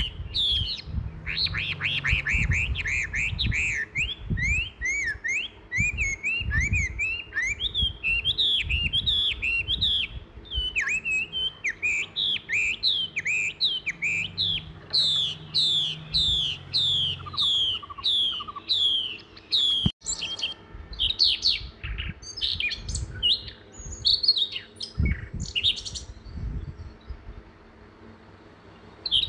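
Small birds chirping: a dense run of short, high, downward-sweeping chirps, several a second, that breaks off abruptly about two-thirds through and then goes on sparser and fainter.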